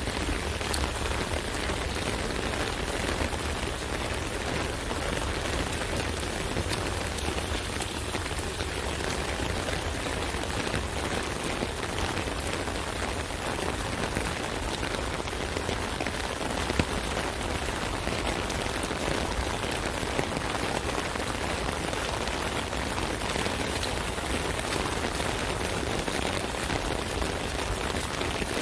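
Steady rain falling on an umbrella: a dense patter of many drops, with one louder drop hit about 17 seconds in.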